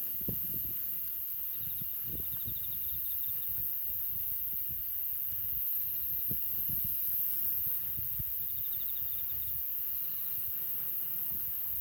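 Wood fire crackling with scattered, irregular low pops, under a steady high hiss. Insects trill in short pulsed runs a couple of times.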